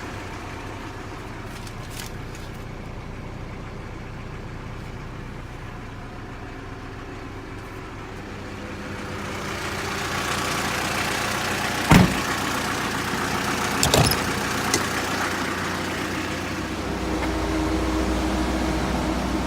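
Mitsubishi Canter truck engine running steadily at idle, growing louder about ten seconds in, with a sharp knock a couple of seconds later and a few clicks soon after.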